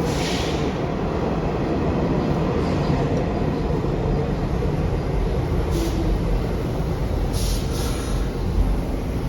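New York City subway train running through an underground station, a steady low rumble with a few short high hisses.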